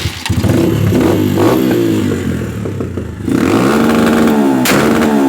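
Motorcycle engine, just started, running unevenly, then revved hard from about three seconds in, its pitch rising and falling in repeated swings. A sharp crack comes near the end.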